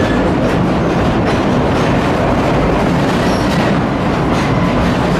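Cumbres & Toltec narrow-gauge train rolling along the rails, heard from aboard: a steady, loud rumble of wheels and cars with light clicking over the rail joints.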